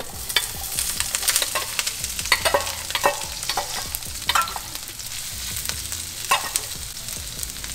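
Onions and carrots sizzling in hot oil in a wok as they are tipped in, with a metal spatula clicking and scraping against the wok and the steel bowl.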